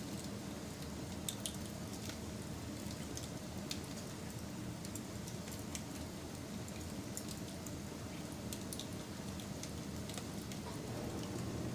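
Wood fire crackling, with scattered sharp pops and snaps over a steady low rumble of burning.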